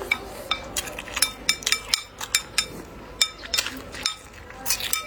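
Eating utensils clinking against ceramic tableware: about a dozen quick, irregular clinks, each ringing briefly.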